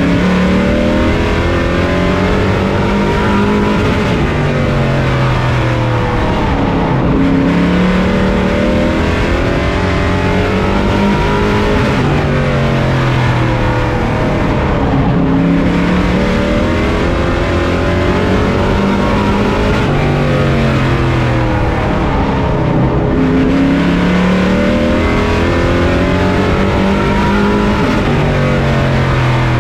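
On-board sound of a racing pro truck's engine at full race pace, the pitch climbing as it accelerates and dropping back as it lifts, in a repeating cycle about every eight seconds as it laps a short oval.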